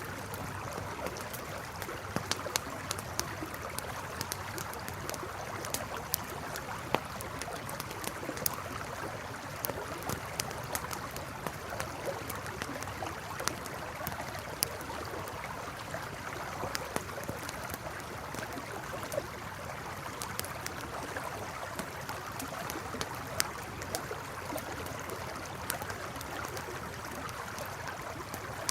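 Wood campfire crackling and popping in irregular sharp snaps over the steady rush of a flowing river.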